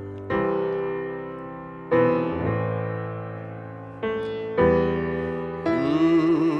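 Music: slow piano chords struck one at a time, each left to ring and fade, with a wavering melody line coming in near the end.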